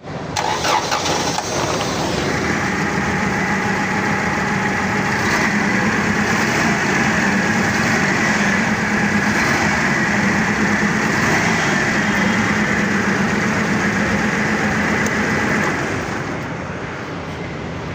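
Forklift's four-cylinder spark-ignition engine running steadily, easing slightly lower in level about 16 seconds in.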